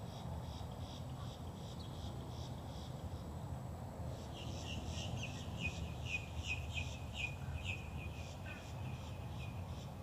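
A songbird chirping in a quick run of short notes, about three a second, beginning about four seconds in, over a steady low rumble of background noise.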